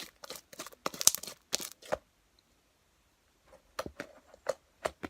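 Irregular crackling and clicking handling sounds, stopping for about a second and a half midway and then starting again.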